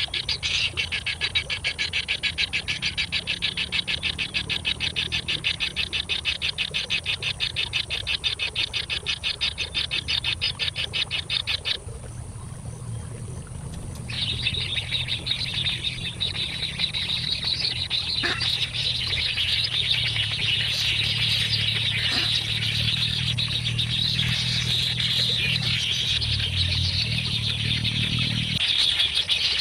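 Nestling birds begging: a fast, even run of high chirps for about twelve seconds, a brief pause, then a denser, continuous chorus of chirping.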